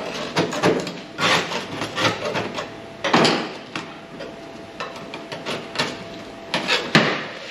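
Irregular scraping and knocking of a hand tool working rusted sheet metal in a 1962 Chevy C10 truck cab, uneven strokes with a few louder hits, over a faint steady hum.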